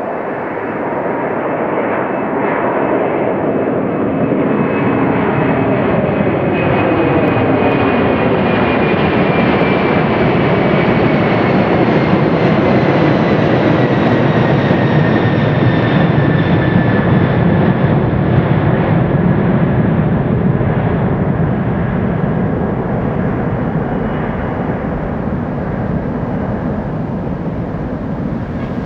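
Boeing 747-400's four jet engines at takeoff power as the airliner passes, building to a peak about halfway through and then fading, with the engine tones falling in pitch as it goes by.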